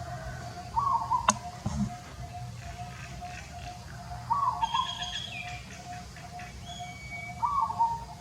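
Birds calling: a short call repeating about every three seconds over a steady pulsing chirp, with a higher call about halfway through. One sharp click comes about a second in.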